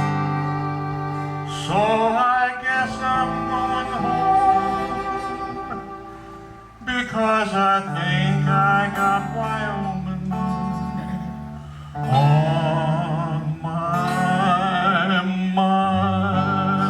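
Live western music with acoustic guitar and string accompaniment over a steady bass. Wavering melody phrases come in three times, about 2, 7 and 12 seconds in.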